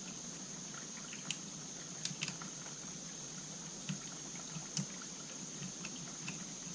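A few scattered small clicks and taps of parts being handled and fitted as a chainsaw's carburetor, throttle linkage and wire are worked back into place by hand, over a steady hiss.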